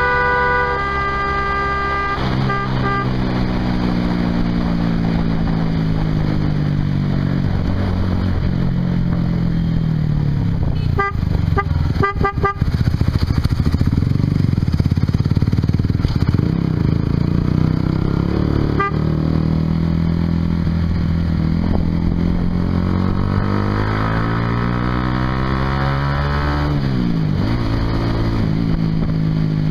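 Honda CBR150R's single-cylinder engine running through a Yoshimura exhaust while riding. The revs sink slowly after the start, then climb steadily for several seconds near the end before dropping sharply, as at a gear change. A vehicle horn toots briefly at the very start.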